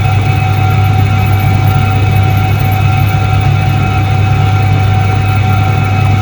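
1978 Soviet Iset-3 washing machine running steadily: an even electric-motor hum with a strong deep drone and a steady higher whine above it, unchanging throughout.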